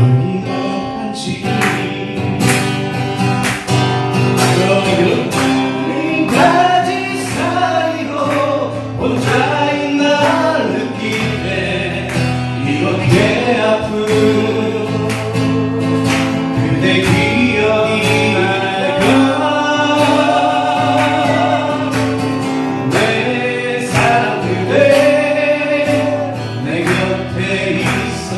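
Several voices singing a Korean song together to strummed acoustic guitars.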